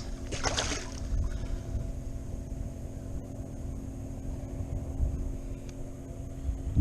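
Steady engine hum with several fixed pitches, over a low fluttering rumble of wind on the microphone.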